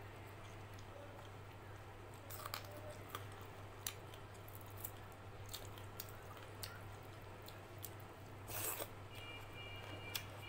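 Close-up chewing of a mouthful of rice and dal, with soft wet mouth clicks and smacks scattered through. A short, louder rush of noise comes about three-quarters of the way in, over a steady low hum.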